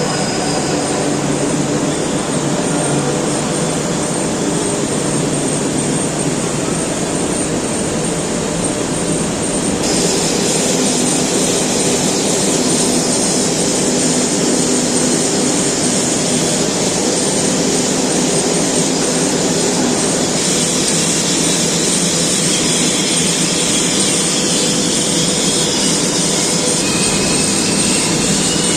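Steel coil slitting line running: a loud, steady industrial machine noise with a harsh hiss that grows louder about ten seconds in.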